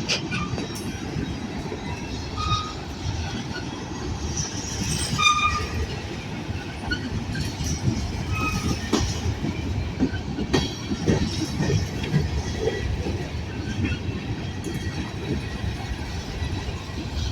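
Freight train rolling past, a steady low rumble with wheel clatter and a few brief wheel squeals.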